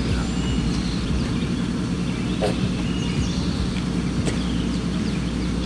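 A vehicle engine idling steadily at an even pitch, with birds chirping now and then and a single knock about halfway through.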